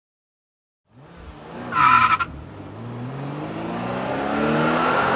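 Car sound effect: after about a second of silence a car engine comes in, tyres squeal briefly, then the engine revs up with steadily rising pitch as the car drives off.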